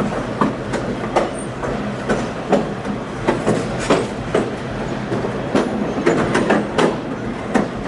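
Moving passenger train heard from on board: a steady rumble of wheels on rail, with frequent irregular clacks and knocks as the wheels pass over the rail joints and the car rattles.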